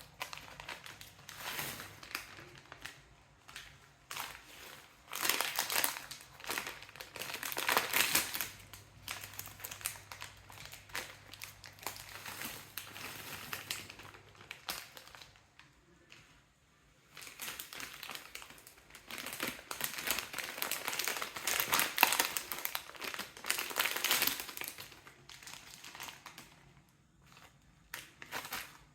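Plastic snack packets crinkling as they are handled, in irregular bursts with a couple of short pauses.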